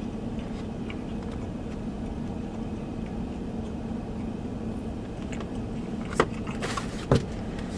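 Steady low hum of a car's engine idling, heard from inside the parked car's cabin. A couple of short sharp clicks come near the end.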